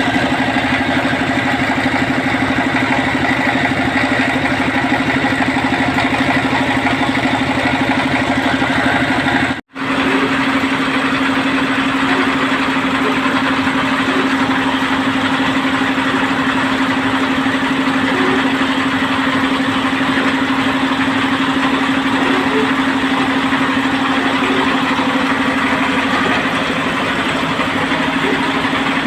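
Engine of a semi-mechanised water-well drilling rig running steadily at a constant speed, with a strong even hum. The sound cuts out for a moment about ten seconds in, then carries on unchanged.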